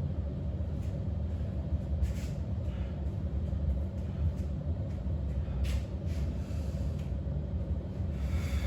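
Steady low rumble, with a few short, heavy breaths from a person resting after exercise.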